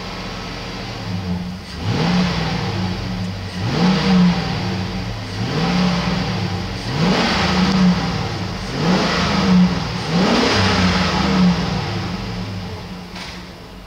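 2005 Chevrolet 5.3-litre V8 being revved in park, heard from inside the cab: about six quick blips of the throttle, each rising sharply and dropping back toward idle, before it settles down near the end.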